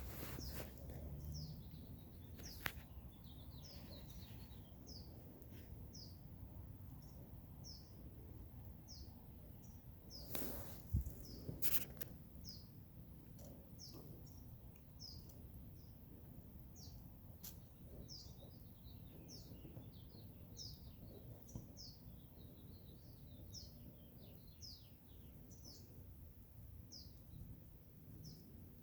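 Small birds chirping: short, high, falling notes, repeated about every second, over a steady low rumble. A few sharp knocks come about ten to twelve seconds in.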